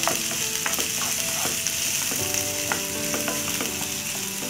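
Chopped onions and green chillies sizzling as they fry in hot oil in a nonstick kadai. A wooden spatula stirs them, clicking against the pan now and then.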